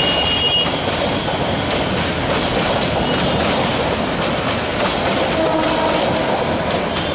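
Passenger coaches of a train rolling past over the station's track points, the wheels running on the rails with a steady clatter and brief faint squealing tones.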